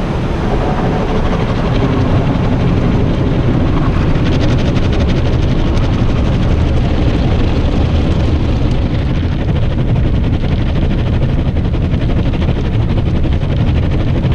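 Oasis BayWash i5 automatic car wash rinse spraying water over the car, heard from inside the cabin as a loud, steady low rumble. From about four seconds in, a brighter hiss of spray with a rapid flutter joins it.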